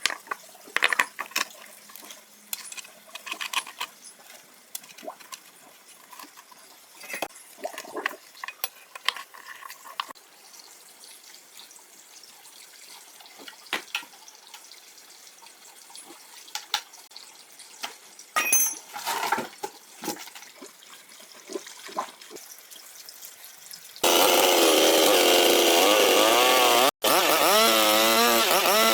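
Scattered clicks and knocks of tools and parts being handled. About three-quarters of the way through, a chainsaw's small engine starts running loud and steady, its pitch wavering, with a brief dropout about three seconds later.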